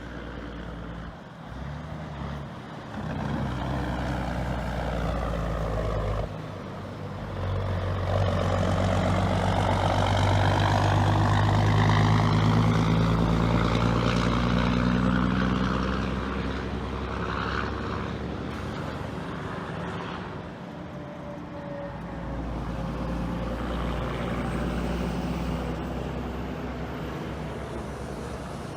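Straight-piped 1980s Western Star 4964 truck driving past. Its exhaust note builds to its loudest about twelve seconds in, then fades as the truck moves away.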